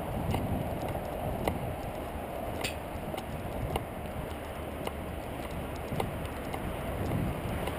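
Steady rolling rumble of a bicycle riding along a trail, with scattered light clicks and rattles.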